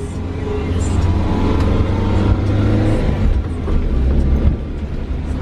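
Toyota Corolla's engine running hard under load while off-roading, a loud low drone that builds over the first second and stays loud.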